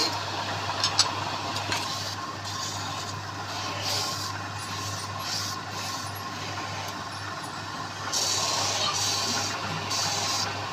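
Wood lathe running with a steady hum while a turning tool scrapes the spinning wood in intermittent hissing cuts, heavier about eight seconds in.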